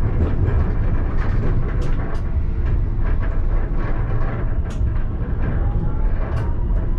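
Alstom Citadis tram running on its rails, heard from the driver's cab: a steady low rumble with scattered short clicks of the wheels over the track. A faint whine rises slightly near the end.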